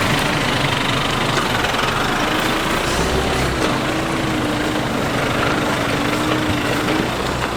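Nissan Navara NP300 4x4 driving on a rough forest track: steady engine and tyre noise with a low rumble and a hum that wavers slightly in pitch.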